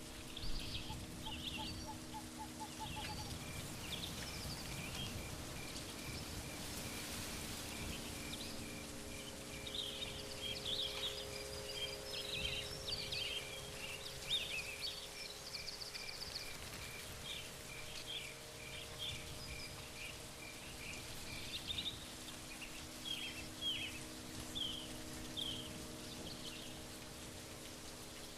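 Birds chirping and calling over a steady outdoor background noise, with one bird repeating a short high peep about twice a second through most of it. A faint low steady hum sits underneath.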